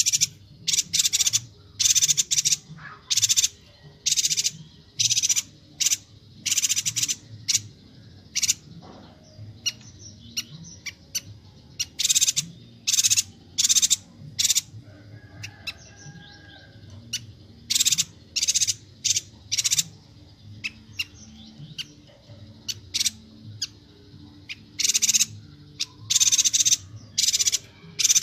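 Bornean yuhina calling loudly: quick series of short, harsh, high notes, about two a second, in runs separated by two quieter spells with only faint calls.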